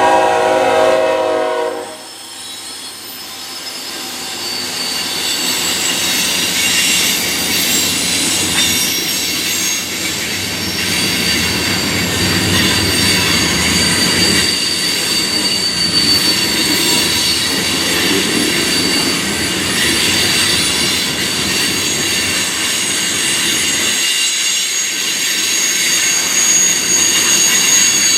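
Diesel locomotive horn sounding a chord that cuts off about two seconds in. Then a freight train rolls past with a steady rumble and clatter, and its wheels keep up a high squeal against the rail.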